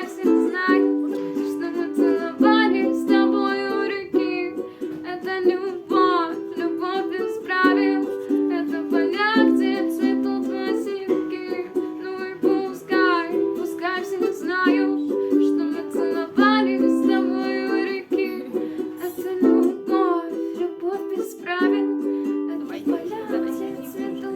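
Ukulele music: strummed chords with a gliding melody line above them, playing in repeating phrases.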